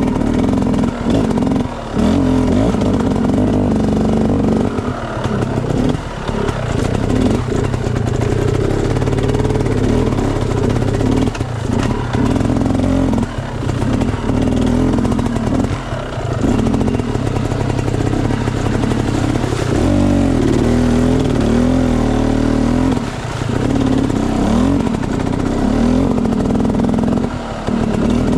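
Enduro dirt bike engine running under constantly changing throttle, its pitch rising and falling, with brief drops every few seconds as the throttle is closed.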